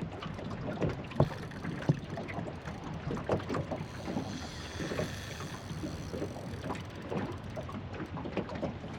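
Small aluminium boat on the water: water lapping against the hull with irregular light knocks and clicks.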